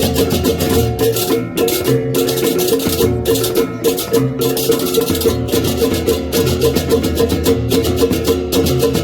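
Balinese gamelan beleganjur processional music: fast, dense clashing of small cymbals over ringing bronze gong-chime tones and low drum and gong pulses.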